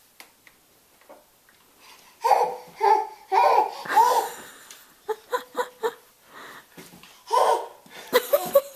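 An eight-month-old baby squealing and laughing with excitement: about two seconds of quiet, then a run of high squeals, then short quick bursts of laughter and babble.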